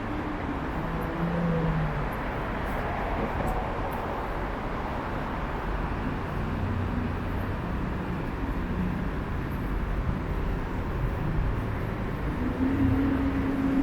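Steady road traffic noise: cars and other vehicles passing on a busy city street, with a low engine hum coming in near the end.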